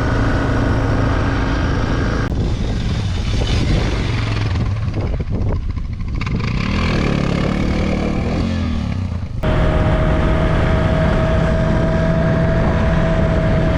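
Dual-sport motorcycle engine running steadily while riding, mixed with a loud rushing noise; the sound changes abruptly about two seconds in and again about nine seconds in, and after that a steady whine sits over the engine.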